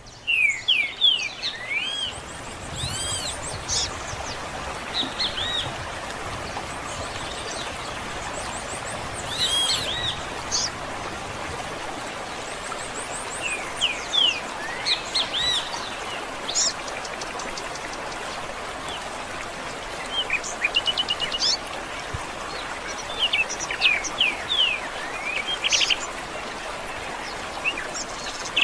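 Several songbirds singing and calling: clusters of short whistled notes and quick trills that come in bursts every few seconds, over a steady hiss of background that may be running water.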